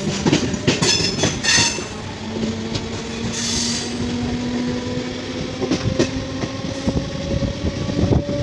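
MEMU electric train running along the track, heard from the coach: wheels clicking over rail joints, most densely in the first two seconds and again near the end. Under the clicks there is a steady hum that slowly rises in pitch, with a short hiss about three and a half seconds in.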